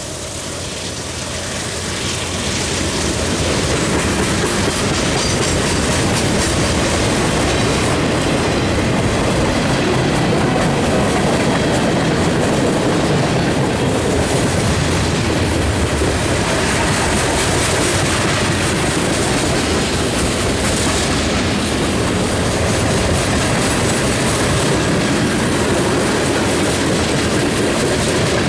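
Freight train rolling past close by, its wheels clattering over the rail joints with some squeal. It grows louder over the first few seconds, then holds steady.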